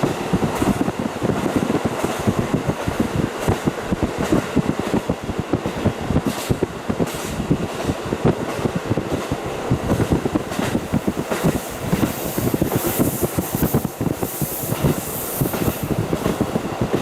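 KiHa 40 diesel railcar running along the line, heard through a fully open window: the steady rumble and rattle of its wheels on the rails with the diesel engine underneath. A high hiss joins in over the second half.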